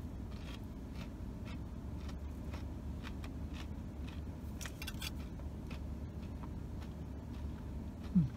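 A person chewing a deep-fried hush puppy, with small crunchy clicks scattered irregularly, over a steady low hum in a car's cabin. A short hummed "mm" comes near the end.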